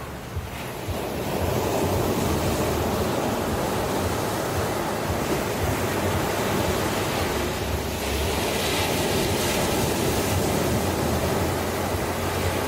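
Ocean surf breaking and washing ashore: a steady rush of water that swells up about a second in, with a brighter hiss of foam later on.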